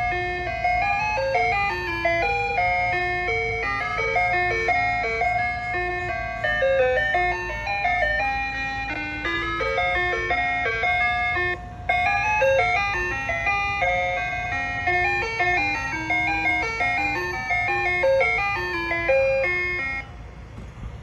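Ice cream truck's chime box playing a bright electronic melody of short stepping notes, with a brief break about twelve seconds in.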